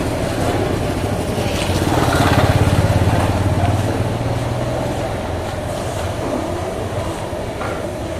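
A motor vehicle engine running close by with a steady low hum, growing louder about two to three seconds in and then fading as it passes.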